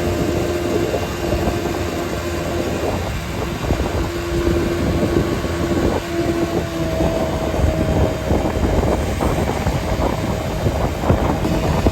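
Vehicle on the move: steady road and engine noise with a crackly texture and a humming tone that jumps to a higher pitch about six seconds in.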